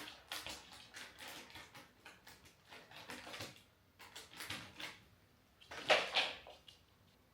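Soft household handling sounds: a series of light rustles and knocks, the loudest about six seconds in.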